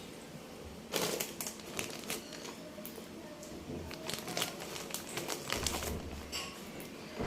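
A cheese-ball snack packet crinkling in a small child's hands while she eats, an irregular run of sharp crackles starting about a second in.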